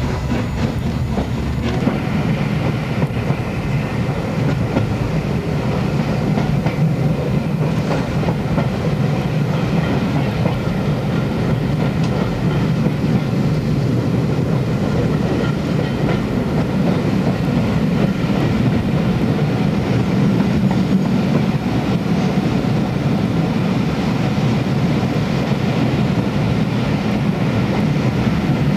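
A train running along the track: a steady, loud noise of wheels on rail that holds throughout.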